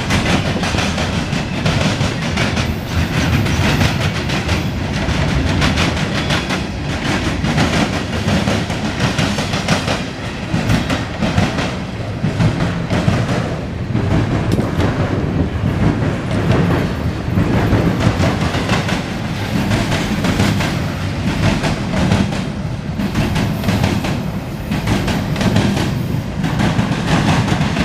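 Freight train's cars rolling past, steel wheels clicking steadily over the rail joints with a low rumble and rattle.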